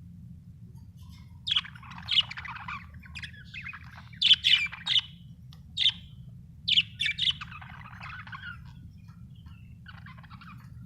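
Budgerigars chirping and chattering, with loud, sharp calls coming in clusters from about one and a half to seven and a half seconds in, and quieter warbling between them and after. A steady low hum runs underneath.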